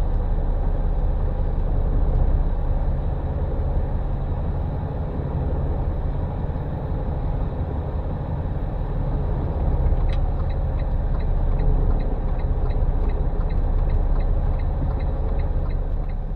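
Semi-truck engine running steadily with a low rumble. About two-thirds of the way through, a regular ticking of roughly two to three clicks a second joins it.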